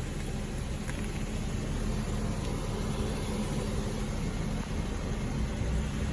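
Steady low hum of the Infiniti Q60's 3.7-litre V6 engine idling.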